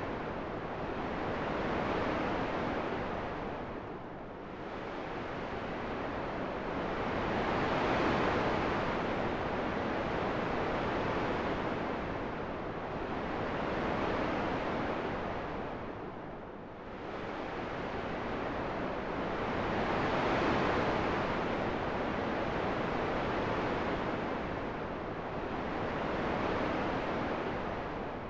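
Wind sound made for sleep: a rushing noise with no tones that swells and eases every several seconds, dipping deepest about four seconds in, about two-thirds of the way through, and again near the end.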